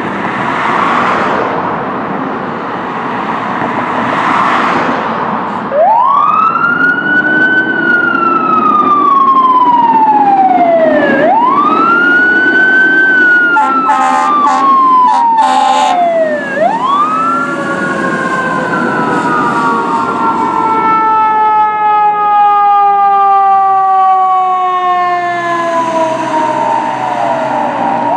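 Fire apparatus sirens wailing. After a few seconds of heavy vehicle noise, each wail sweeps up fast and sinks slowly over about five seconds, with short horn blasts about halfway through and overlapping siren tones later on.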